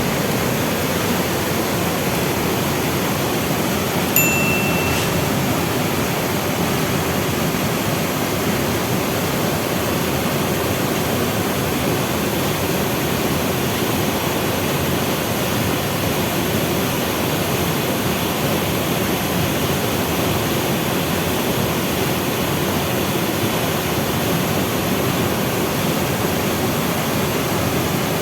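Waterfall's falling water rushing steadily. About four seconds in, a short high tone sounds once over it for under a second.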